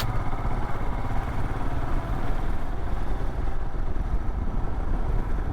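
Royal Enfield Himalayan's single-cylinder engine running while riding, heard over steady wind and road noise on a helmet-mounted microphone.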